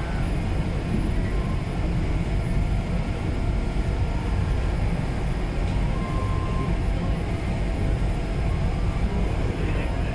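Steady low rumble of the passenger ferry Shin-Salvia Maru under way, heard from on board.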